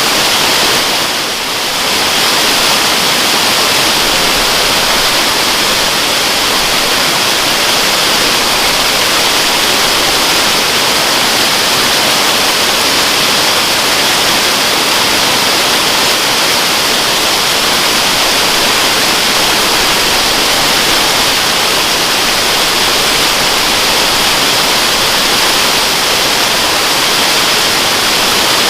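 Waterfall: a steady, even rush of falling water, strongest in its high hiss. It dips briefly in level about a second in.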